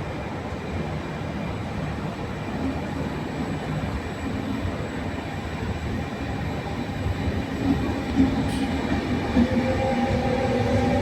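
Train running through the station, its rumble growing steadily louder, with a whine rising in pitch over the last couple of seconds.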